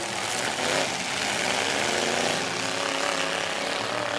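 Demolition derby trucks' engines running loud and steady, with a broad wash of noise over them.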